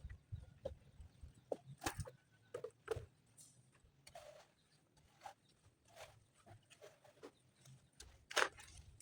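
Scattered, irregular knocks and clicks of stones and tools being handled while a stone foundation is laid, the sharpest knock near the end.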